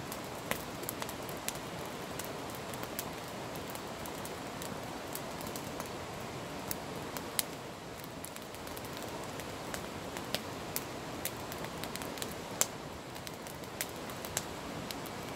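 Wood campfire burning, a steady hiss of flames with irregular sharp pops and snaps from the burning logs.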